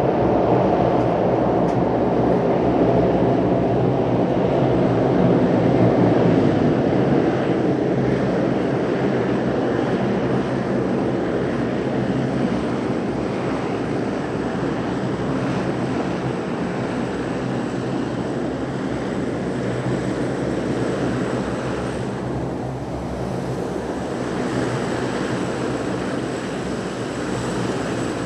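De Havilland Canada Dash turboprop aircraft: a steady drone of engines and propellers with a low hum underneath, easing slightly in loudness over the stretch.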